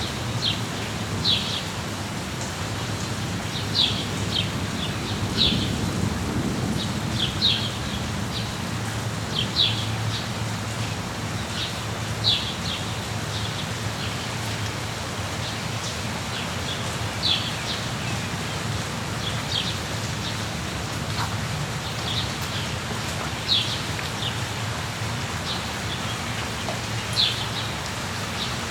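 Steady rain with short, sharp bird chirps scattered irregularly throughout, and a low rumble underneath that swells about six seconds in.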